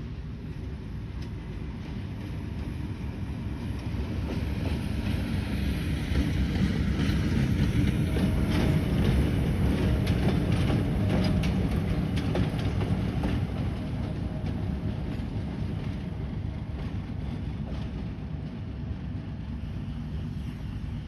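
A train passing: a low rumble of engine and wheels builds to its loudest about halfway through, with wheels clicking over the rail joints, then slowly fades away.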